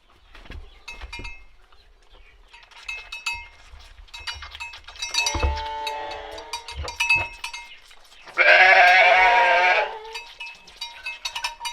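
Sheep bleating: a shorter call about halfway through and a loud, long bleat near the end, with scattered clicks between.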